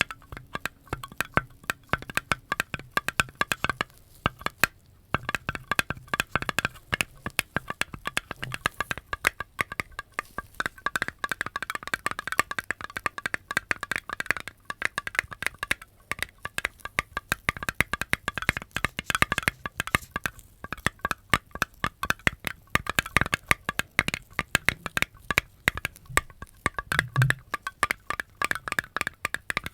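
A dense, irregular run of small sharp clicks and crackles, many to the second, with brief pauses about five seconds in and again near the middle.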